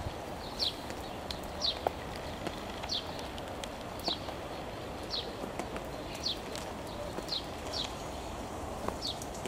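A bird repeating a short, high, falling chirp about once a second, over a steady background hiss.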